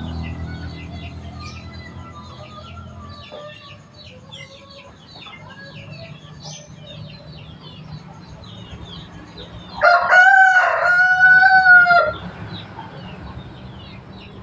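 A rooster crows once, loud and drawn out, about ten seconds in, over steady high chirping of small birds. A low engine hum fades out in the first few seconds.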